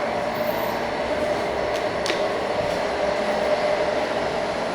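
Otis Gen2 elevator cab travelling down the shaft: a steady ride hum and rush of air with a constant mid-pitched tone, and a couple of faint ticks.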